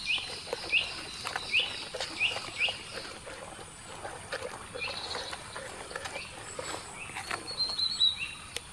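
A bird chirping in short repeated calls, about five in the first three seconds, with a brief trill near the end. Under it are faint soft taps and squelches of the rice-and-masala batter being mixed.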